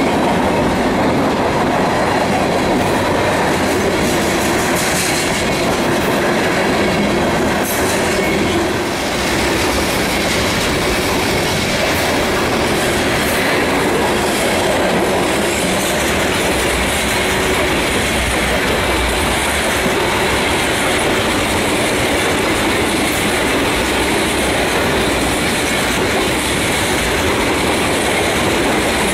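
Freight cars of a mixed manifest train (covered hoppers, flatcars and tank cars) rolling past, with the steady noise of steel wheels running on the rails.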